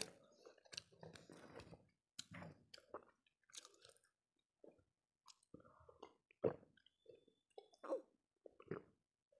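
Close-miked chewing of a mouthful of rice and curry eaten by hand: soft, wet mouth sounds coming in short spurts with pauses. In the second half come a few louder single sounds as she drinks from a glass of water.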